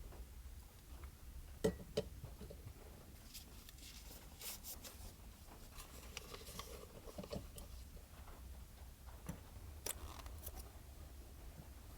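Small objects being handled in a confined space: two sharp clicks, then scattered rustling, tapping and clicking, over a steady low hum.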